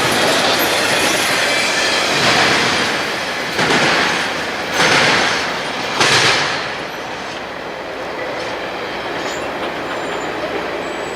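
A train running past close by, wheels on the rails, with a few louder surges in the first six seconds. The noise then drops off about seven seconds in and carries on at a lower, steady level.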